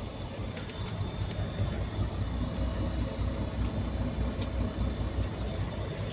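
Scania Irizar i5 coach heard from inside the cabin while under way: a steady low rumble of engine and road, with a few light rattling clicks from the body and fittings.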